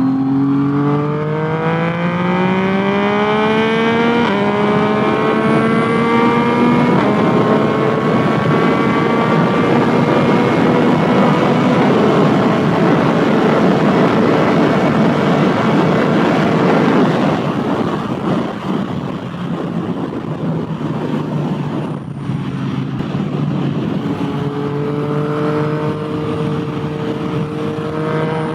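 Yamaha FZ-09 inline-three through a full aftermarket exhaust, accelerating hard with the revs climbing, dropping at an upshift about 4 s in and again near 7 s. It then runs at speed under a broad rush of wind noise, eases off past the middle, and rises again near the end.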